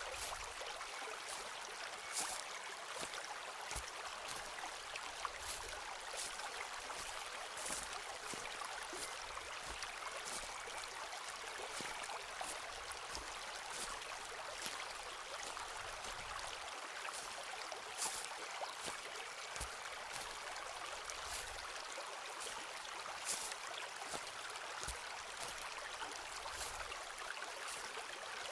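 A forest stream running steadily, with scattered soft clicks at irregular moments.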